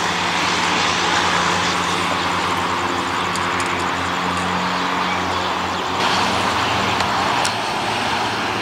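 Freight train rolling past at low speed: a steady rumble of steel wheels on rail with a low diesel locomotive hum underneath and a few light clicks.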